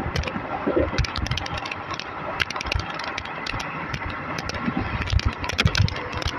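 Running noise of an ICF passenger coach at speed, heard from on board: a steady rumble of wheels on rail, with many sharp clicks and rattles at irregular intervals.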